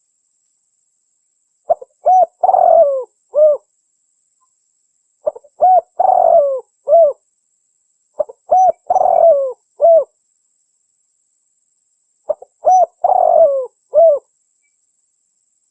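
Spotted dove (tekukur) calling: a phrase of a few short coos around one longer, rougher coo, given four times about every three and a half seconds with dead silence between. It is a looped lure recording, played to draw wild spotted doves in.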